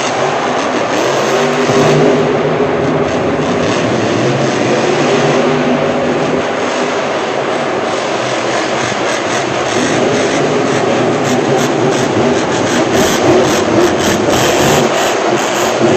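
Monster truck engine running loud and steady, its pitch wavering up and down in the first half.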